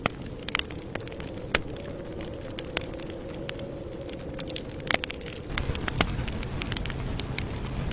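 Campfire crackling: a steady low rumble of burning with irregular sharp pops and snaps, the rumble growing louder about five and a half seconds in.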